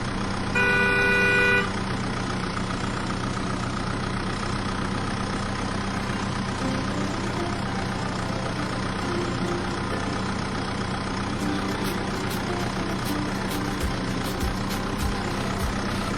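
Steady idling tractor engine sound, with a horn honking for about a second near the start and faint clicking later on.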